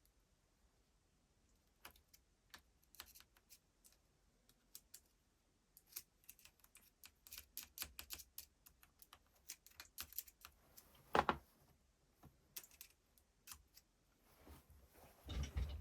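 Irregular light clicks and taps of small hard parts being handled, growing busier through the middle, with one louder click about eleven seconds in and a duller knocking near the end.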